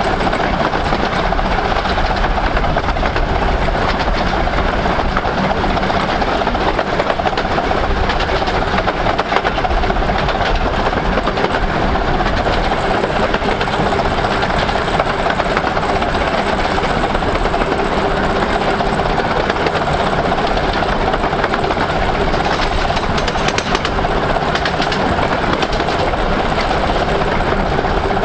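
Miniature 15-inch gauge steam train, hauled by the 4-8-2 locomotive Hercules, running steadily along the line: a continuous rumble of locomotive and wheels on rail.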